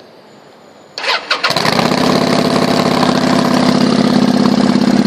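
1996 Kawasaki Vulcan 800's V-twin engine cranking over briefly about a second in, catching almost at once and settling into a steady, pulsing idle through aftermarket exhaust pipes.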